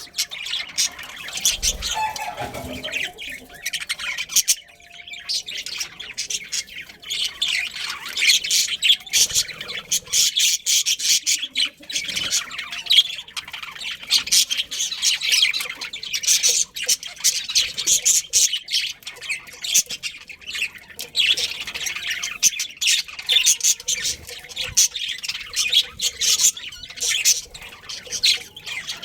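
Budgerigars chattering: rapid, overlapping chirps and squawks, easing off briefly about four seconds in.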